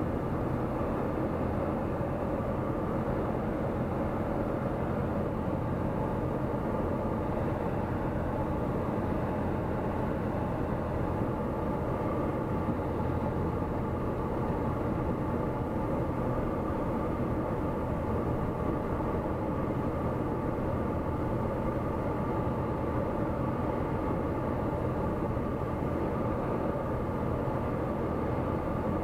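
Steady drone of a Tecnam P96 Golf light aircraft's engine and propeller in flight, holding an even pitch throughout.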